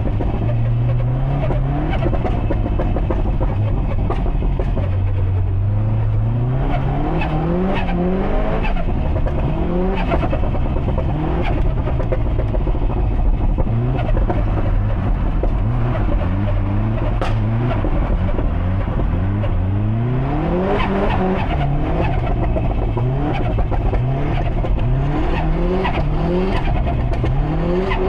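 Built Subaru Impreza STI's turbocharged EJ257 flat-four engine being driven hard, its pitch climbing and dropping back again and again through the gears. A few sharp cracks stand out, about a third and two thirds of the way through.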